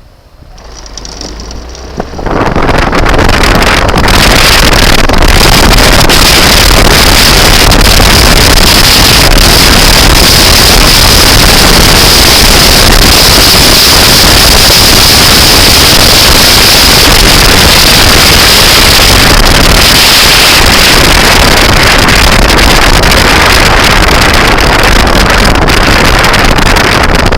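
Loud, steady rushing noise of wind and motion from a moving vehicle, building up over the first two seconds and then holding.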